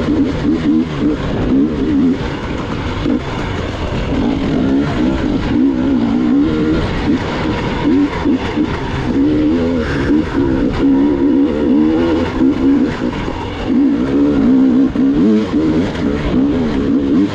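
Gas Gas EX 300 two-stroke enduro motorcycle engine running under constantly changing throttle, its pitch rising and falling without settling, with light knocks mixed in.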